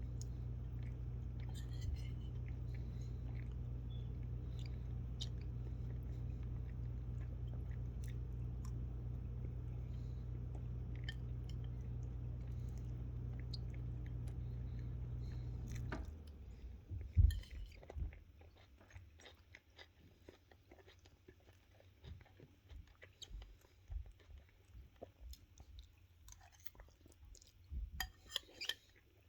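Food being chewed and crunched close by, in scattered bites and crunches, the loudest just after a steady low hum cuts off about halfway through.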